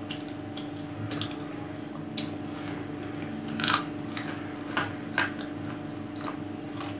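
A person biting and chewing on cooked chicken bones close to the microphone: irregular crunches and mouth clicks, the loudest crunch a little past halfway, over a steady low hum.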